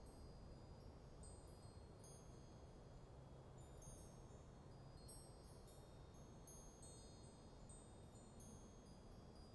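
Wind chimes tinkling faintly and irregularly, several high notes ringing at once now and then, over a low steady rush of light wind.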